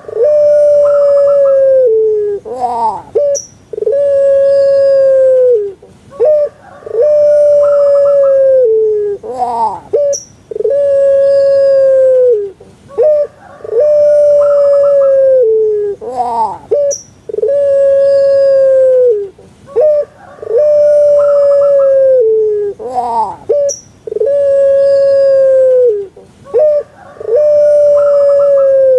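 Puter pelung dove (a Javanese song-bred ringneck dove, Streptopelia risoria) cooing over and over. Each call is short rising notes followed by one long drawn-out steady note that falls away at the end, repeated about every three seconds.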